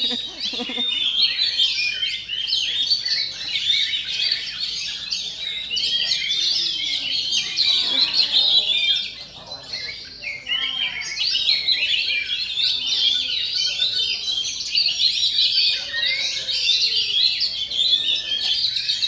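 Oriental magpie-robin (kacer) singing a fast, dense stream of warbled and chirped notes, with a brief lull a little after nine seconds.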